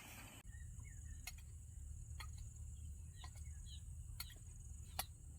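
Steady high chirring of insects with faint short bird chirps, broken by a few sharp clicks.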